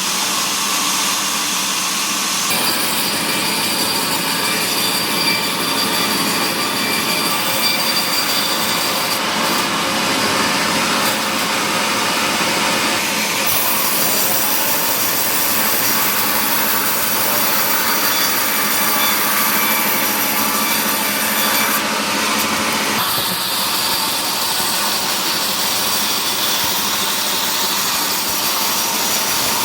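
Power saw cutting mahogany timber: a loud, continuous cutting noise whose tone shifts a few times as the cut goes on.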